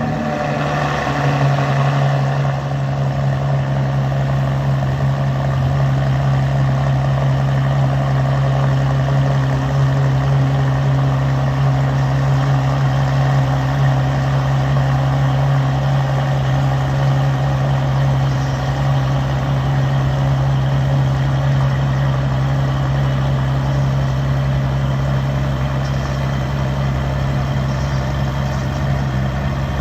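Ferrari LaFerrari's V12 idling steadily just after a cold start. The brighter start-up note fades over the first two seconds, then the idle holds even.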